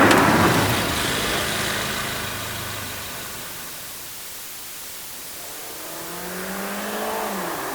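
Passenger cars driving past. The noise of one car fades away over the first few seconds. Then another car approaches, its engine note climbing slowly and then dropping sharply in pitch as it passes near the end.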